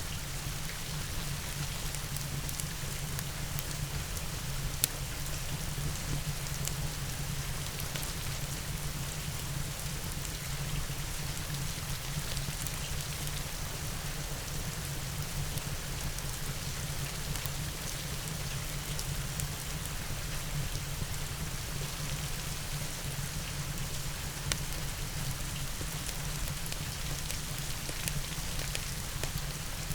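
Steady rain mixed with a crackling wood fire: an even hiss of rain with scattered sharp pops, the loudest about five seconds in and again near twenty-five seconds.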